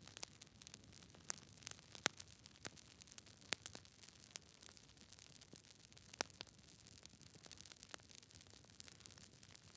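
Campfire crackling: irregular sharp pops and snaps of burning wood, a few louder than the rest, over a soft steady hiss.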